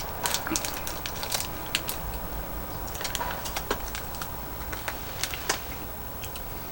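Small plastic candy packet crinkling, with scattered irregular clicks and crackles as it is handled.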